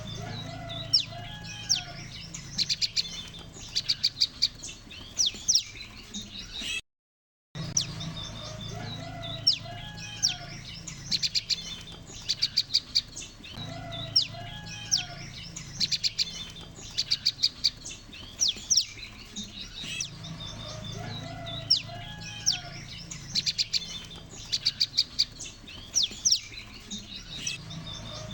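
A flock of prenjak lumut calling: sharp chirps and fast rattling trills, repeating in a looped lure recording, over a low steady hum. The sound drops out completely for under a second about seven seconds in.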